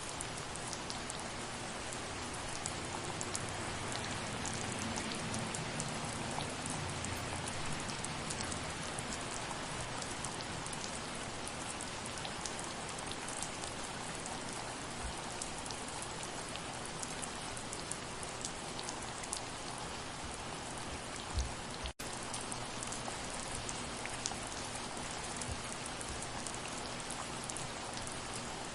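Steady soft rain, an even hiss sprinkled with the ticks of individual drops landing. The sound cuts out for an instant about three quarters of the way through.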